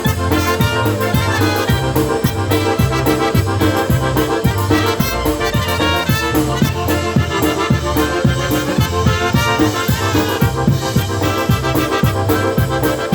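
Live polka band playing a polka, with accordion and brass over a steady beat.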